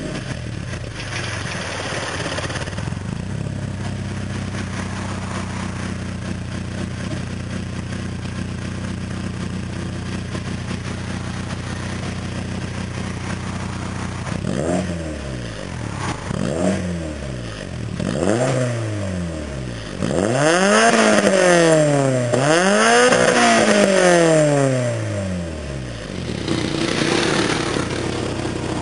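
Honda Integra DC5 Type R's K20A 2.0-litre inline-four, breathing through a J's Racing FX 60RS titanium exhaust on the stock Type R manifold, idling steadily and then revved five times. The first three are short blips. The last two go higher and are held for a couple of seconds each, before the engine drops back to idle.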